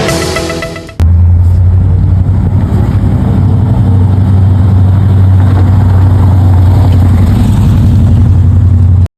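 A car engine running steadily close by, a loud deep rumble that starts suddenly about a second in and cuts off abruptly near the end.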